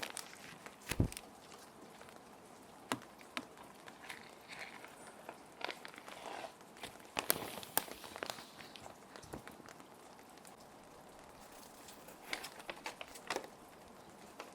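Plastic sheet protectors crinkling and rustling in irregular crackles and clicks as paper sheets are handled and slid into them, over a faint steady rain. The sharpest clicks come about a second in and again around the middle.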